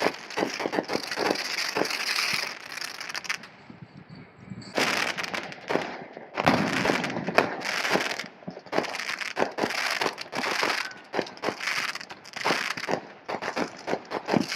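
Fireworks crackling and popping in rapid, dense clusters, with a brief lull about four seconds in.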